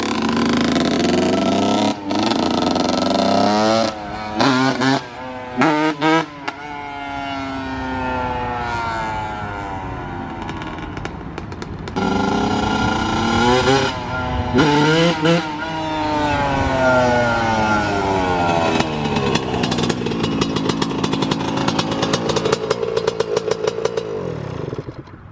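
Yamaha YZ125 two-stroke dirt bike engine being ridden. Its pitch climbs and falls with the throttle and gear changes, with a few quick throttle blips about four to six seconds in. It fades near the end.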